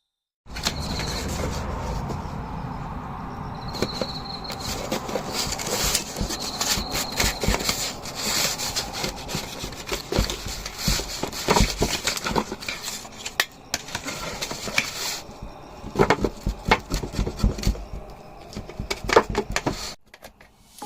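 Utensils scraping and knocking against wood and cookware in irregular clicks and rubs, with a cluster of sharper knocks near the end.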